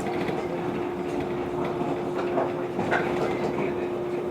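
JR 115 series electric train standing at a station: the steady hum of its onboard equipment with one constant tone, and a few faint knocks and clatters in the middle.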